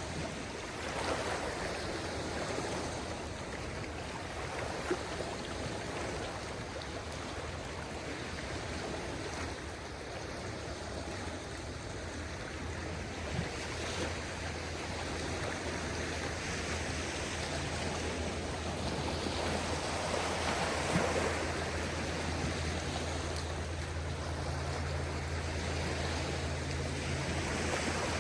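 Small waves of a calm sea washing on a beach: a steady wash of water that swells gently every several seconds. A low steady hum joins about halfway through.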